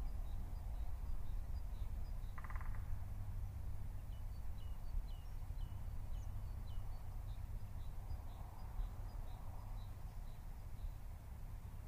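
Outdoor background with small birds chirping, a quick series of short high notes about twice a second, over a steady low rumble. There is one brief lower call about two and a half seconds in.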